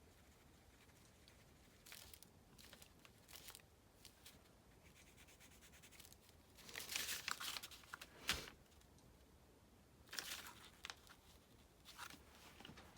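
Faint paper rustling and scratching in short, scattered bursts as paper is handled on a journal page, with one sharp tap about eight seconds in.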